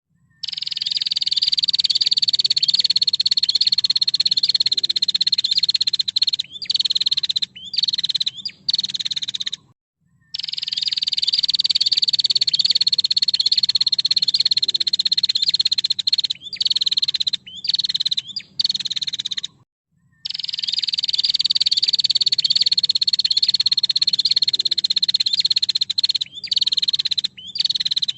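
Female prinia (prenjak) calling: a long rapid ticking trill of about six seconds that falls slightly in pitch, followed by several short bursts. The same sequence repeats about every ten seconds, three times over.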